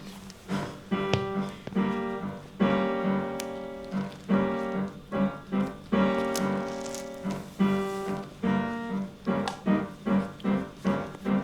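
Piano music playing: a series of repeated notes and chords at a steady pace.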